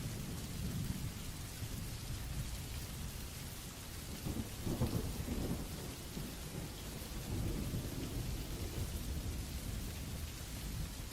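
Steady rain with low rolls of thunder, one about four to five seconds in and a softer, longer one a couple of seconds later.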